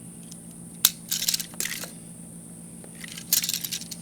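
Handling noise of hard plastic pieces: a sharp click about a second in, then short bursts of crackly rustling, over a steady low hum.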